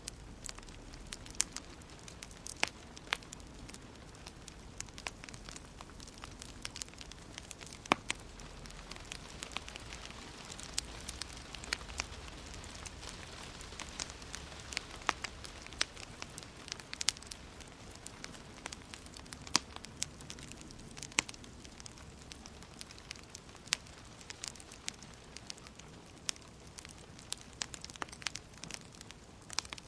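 Wood fire crackling in a fireplace: irregular sharp pops and snaps, several a second at times, over a steady soft hiss of burning logs.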